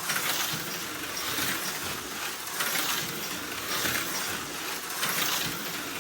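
Viper V3 HO-scale slot car chassis with a new Gen 4 end bell, running laps on its track with a buzzing, rattling motor and pickup noise that swells and fades about once a second. It is running fast and as it should now that the worn end bell has been replaced.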